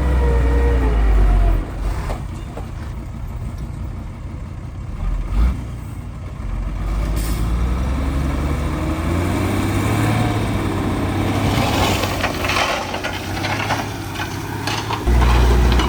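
Diesel engine of heavy machinery running under load, its deep rumble easing after a couple of seconds and surging back strongly near the end, with a rising whine and some rattling in between.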